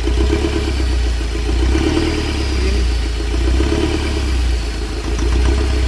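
Mahindra Scorpio's mHawk four-cylinder common-rail diesel engine running with a fast, rhythmic knocking, the 'kat kat' sound. The mechanic puts it down to one injector over-fuelling, its nozzle pin having dropped, or else to a fault in that cylinder.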